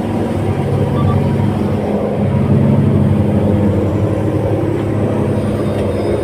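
Boat engine running steadily under way, a continuous low drone, a little louder from about two seconds in.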